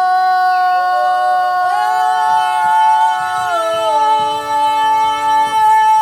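Children's choir singing a cappella in held multi-part harmony. The voices enter together, more parts join about two seconds in, and the lower parts drop out near the end, leaving one high note sustained.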